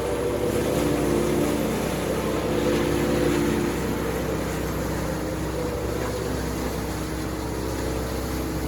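Heavy engine running steadily with a deep, even drone.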